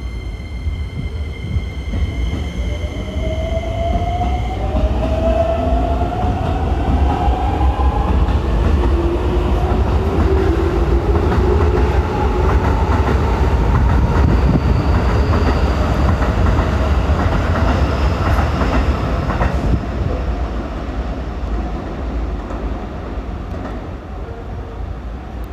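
Keikyu electric train pulling out and accelerating, its traction motor drive giving several whines that rise in pitch over the first several seconds. A heavy rumble and clatter of wheels on rail swells as the cars pass, then slowly fades as the train draws away.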